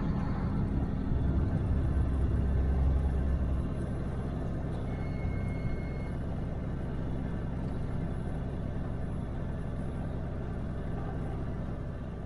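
Steady low rumble of a running vehicle engine, louder for the first few seconds and then even.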